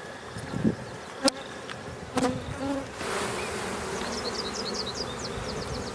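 Honey bees buzzing in a steady hum around an opened hive. Two sharp knocks come about one and two seconds in, and a louder steady hiss joins about halfway through.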